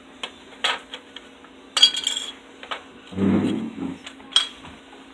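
Small hard RC-truck parts clinking and clattering as they are handled in a scrap bin: a few separate clicks, with a short clatter about two seconds in and another sharp click near the end.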